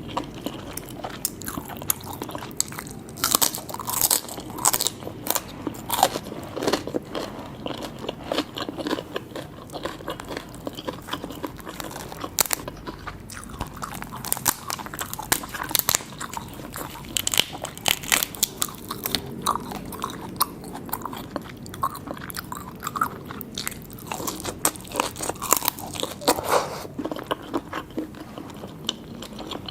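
A person biting and chewing seafood, with irregular crisp clicks and crunches all the way through.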